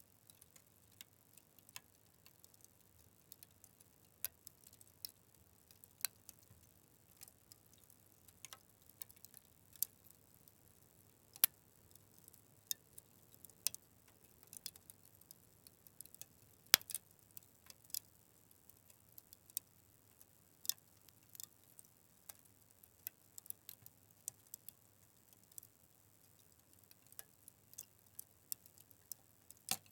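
Fire crackling: irregular sharp pops and snaps over a faint background, with two louder pops about eleven and seventeen seconds in.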